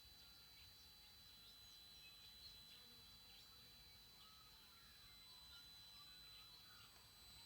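TriStar TS-MPPT-60 solar charge controller giving a faint, steady high-pitched squeal, with birds chirping now and then over it.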